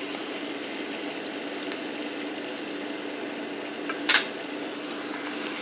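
Battered hog maw deep-frying in hot oil in a cast-iron skillet, a steady sizzle, with one sharp click about four seconds in.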